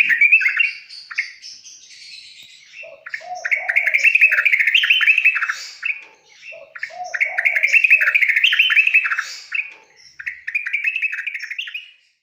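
Yellow-vented bulbul (trucukan) song: rapid chattering phrases, each a few seconds long, repeated about four times with short pauses between, some lower notes under the main ones.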